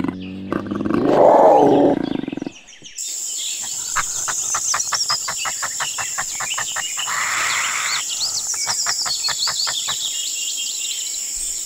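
Cougar giving a short, loud call for the first couple of seconds. Then comes a background of bird chirps and rapid, even ticking over a steady high-pitched insect hiss.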